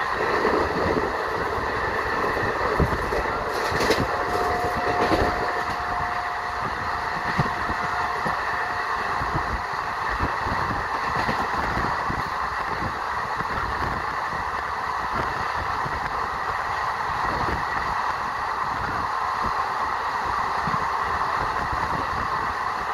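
A train running at a railway station: a steady noise with irregular clanks and knocks throughout. A thin steady tone sounds for about five seconds, starting about four seconds in.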